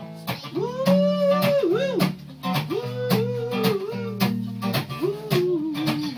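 Live band music: strummed guitar and bass with a slow, mellow sung melody held in long, gliding notes over it.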